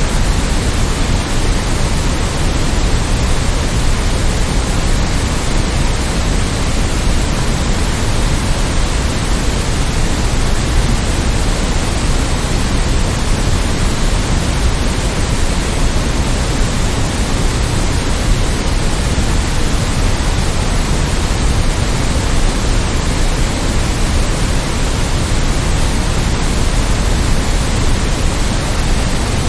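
Steady generated white noise: an even, unchanging hiss spread across all pitches, a little heavier in the low end.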